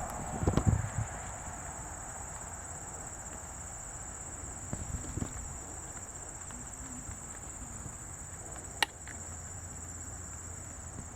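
Steady high-pitched insect chorus, crickets and similar singing insects, running without a break. A few low thumps come about half a second in and again near five seconds, with a single sharp click near nine seconds.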